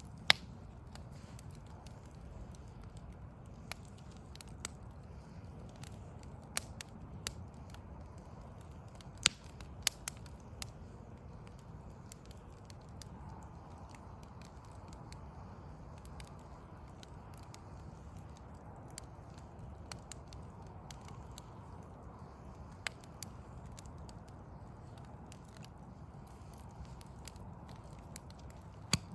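Backyard log fire crackling, with sharp irregular pops and snaps over a steady low rumble.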